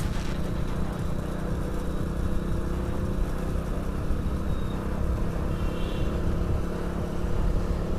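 Hero HF Deluxe commuter motorcycle's small single-cylinder engine running steadily under way, with road noise.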